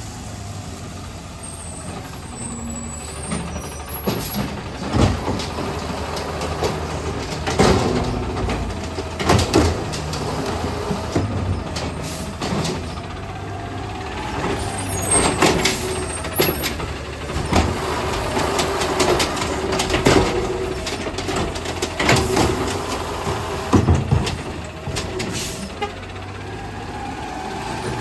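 Garbage truck working a collection route: the engine runs steadily while a string of sharp bangs, the carts slamming as they are dumped into the hopper, comes every few seconds, with hisses of air brakes.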